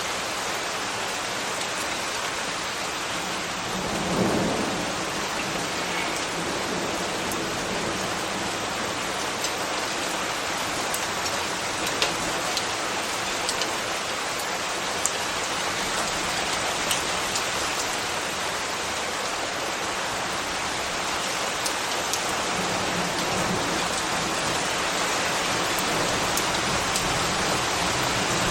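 Steady rain falling, with scattered sharp drop ticks and a brief low swell about four seconds in.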